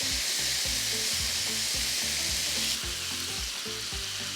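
Chicken thigh pieces sizzling in hot oil in a large pan: a steady frying hiss that gets somewhat quieter about three seconds in.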